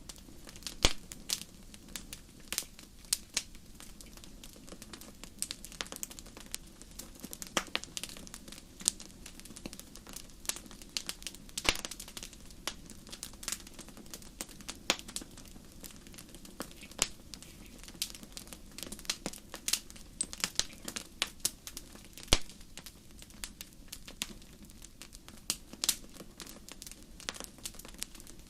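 Wood fire in a fireplace crackling: a dense run of irregular sharp snaps and pops, a few much louder than the rest, over a faint steady low background.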